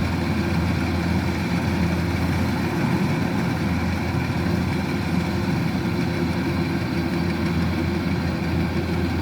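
Diesel engine of a Kubota DC-105X combine harvester running steadily at a constant speed.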